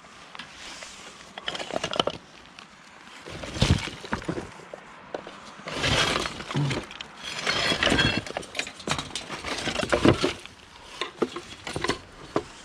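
Junk being rummaged and dragged about in a skip: repeated clattering, scraping and clinking of hard objects knocking together, with several loud knocks.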